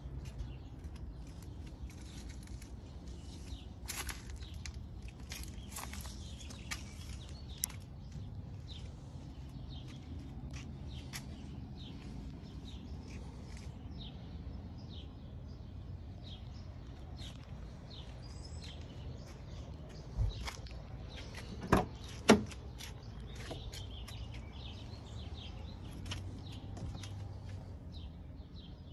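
Birds chirping over a low, steady background rumble, with a few sharp clicks about two-thirds of the way through.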